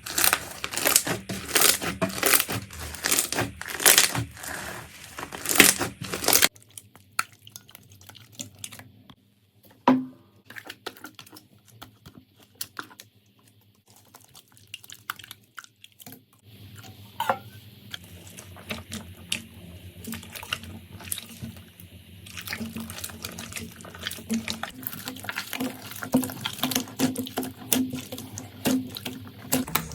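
Slime being squished and pressed by hand: dense crackling for the first six seconds or so, then quieter, wetter squelching and popping.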